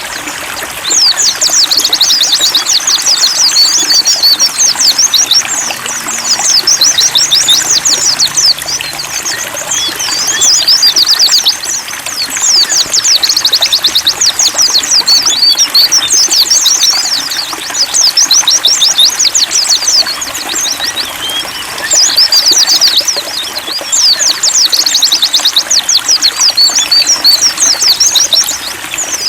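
Several white-eyes (pleci) singing, a fast high twittering in long phrases broken by brief pauses, over steadily trickling water.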